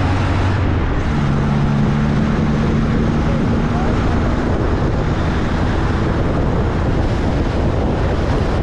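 MG Midget engine running at road speed under heavy wind rush. The engine note steps up in pitch about a second in.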